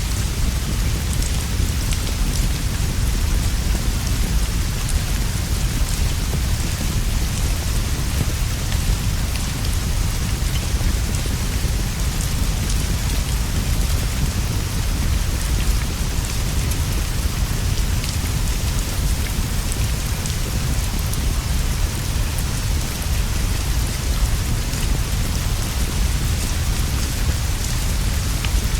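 Steady rain falling on leaves and a straw roof, an even hiss with a constant low rumble underneath and scattered faint ticks of drops.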